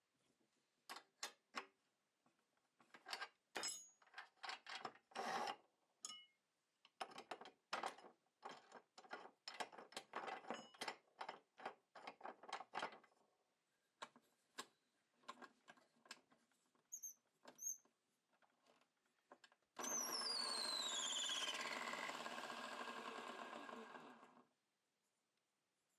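Electric drill driving a small wood lathe: a long run of short, choppy bursts, then about four seconds of steady running with a high whine falling in pitch before it stops suddenly.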